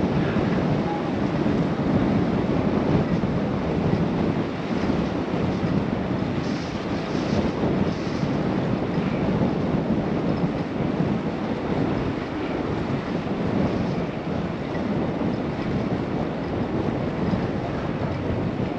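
Steady wind rushing over a GoPro's microphone on a moving bicycle, a dense low rumble with no let-up.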